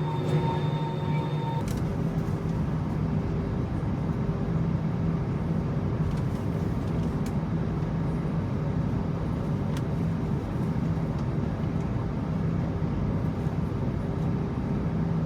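Airbus A321neo jet airliner's engines running steadily, with a low hum over a rushing noise. About a second and a half in, the sound changes to a fuller, deeper rumble.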